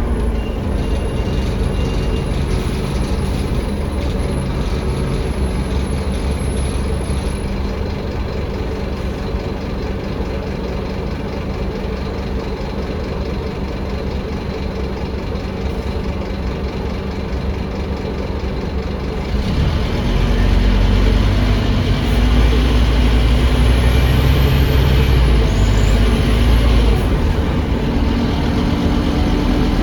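Scania DC9 five-cylinder diesel of a Scania K310UA articulated bus heard from inside, running steadily with road noise. About two-thirds of the way through it gets louder and deeper as the bus accelerates, and the engine note climbs near the end.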